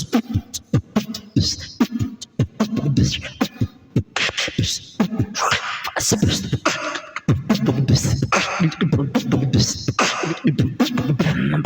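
Human beatboxing: a man imitating a drum kit with his mouth, with a rhythmic pattern of low kick-drum thumps, sharp clicks and hissy snare sounds, some passages with a hummed bass tone underneath.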